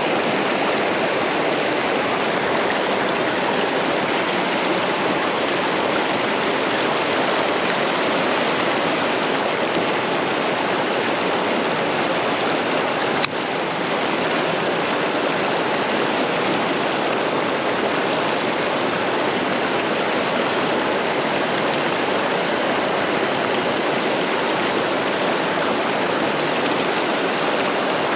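Steady rush of flowing stream water, with one sharp click a little before halfway through.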